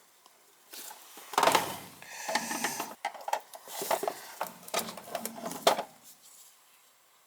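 Hands handling wiring and small parts: irregular rustling, clicking and knocking, loudest a little over a second in, dying away about six seconds in.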